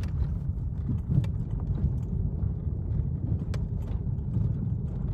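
Chevrolet Vectra B car running with a steady low rumble and only a few faint light clicks, with no knocking from the rear suspension: the knock is cured by a new stabilizer bar bushing.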